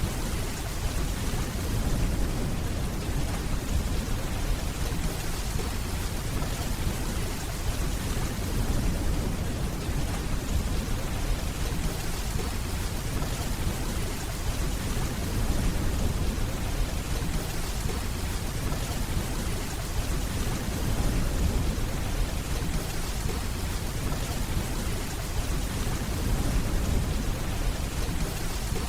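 Steady rainfall hissing evenly, over a continuous low rumble of distant rolling thunder.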